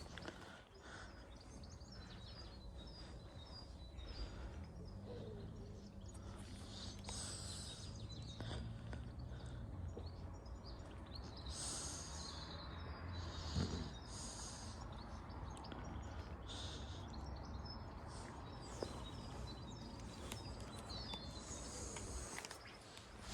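Small birds chirping and singing in short repeated phrases over a steady low rumble of outdoor background noise.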